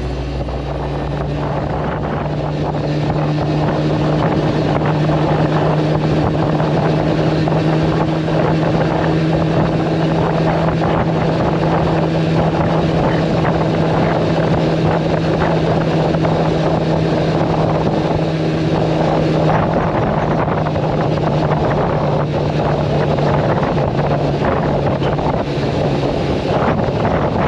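Yamaha R1-Z's two-stroke parallel-twin engine running at steady revs while under way, with wind rushing over the microphone.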